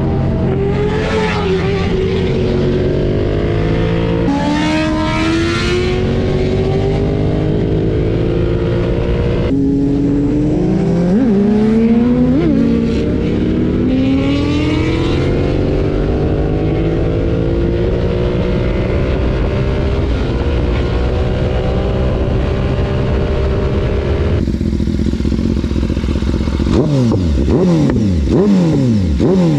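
BMW S1000RR's inline-four engine under way, its pitch climbing and dropping again and again as it works up and down through the gears, over a steady rushing noise. Near the end the pitch falls several times in quick succession as it slows.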